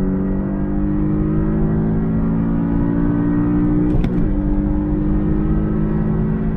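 Porsche 718 Boxster S 2.5-litre turbocharged flat-four under full-throttle acceleration, its note rising steadily in third gear. About four seconds in, a manual upshift to fourth briefly breaks the sound and drops the pitch, and the engine then pulls up again.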